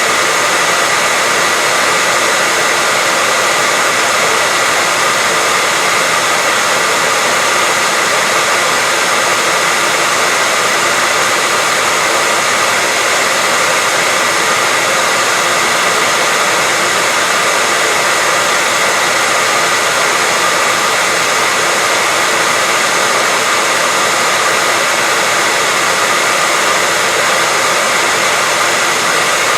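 Hair dryer running steadily at a constant loud level: an even rushing hiss from the blown air with a faint steady whine from the motor.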